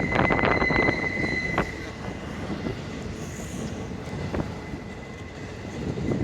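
Intermodal freight train rolling past: a steady high wheel squeal with quick clicks of wheels over rail joints for the first second and a half, then a quieter, even rumble of the passing cars.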